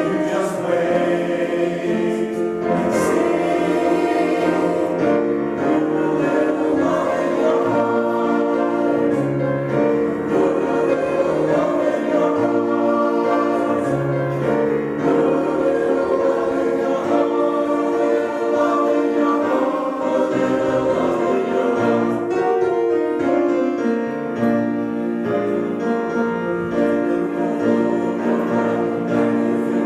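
A choir singing with instrumental accompaniment, steady throughout.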